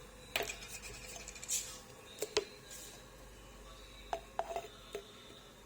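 Quiet clicks and knocks of bird drinkers being handled and filled with beetroot juice, with a brief hiss of liquid about a second and a half in.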